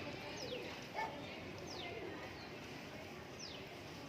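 Wild parakeets calling: three sharp, high calls that fall quickly in pitch, spaced a second or two apart, with a short lower call about a second in.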